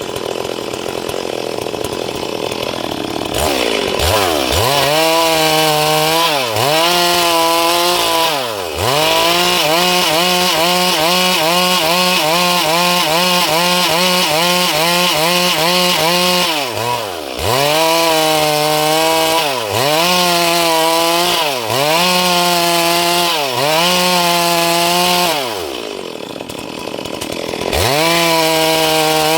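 Stihl MS 382 two-stroke chainsaw cutting through a dry log at full throttle, its engine pitch dipping and climbing back again and again as the chain bites and frees in the wood. It runs slower and quieter at the start and again about three seconds before the end, before revving back up.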